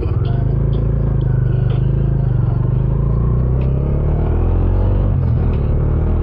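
Bajaj Dominar 400's single-cylinder engine on its stock exhaust pulling away in first gear, the revs climbing, then a brief dip about five seconds in as it shifts up to second at high revs.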